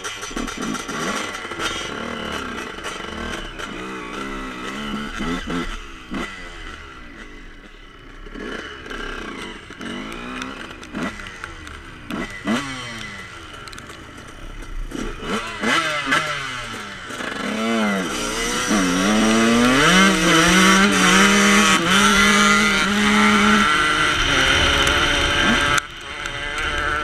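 Dirt bike engine accelerating through the gears on a gravel track, its pitch sweeping up again and again with each shift. About two-thirds of the way in it holds at high revs and is at its loudest, then drops off near the end.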